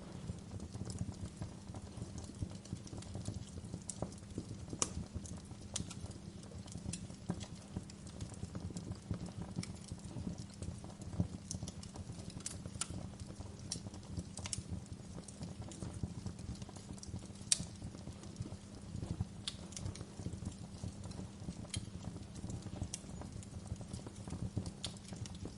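Wood fire burning in a fireplace: a steady low rumble of flames with irregular sharp crackles and pops of the burning logs.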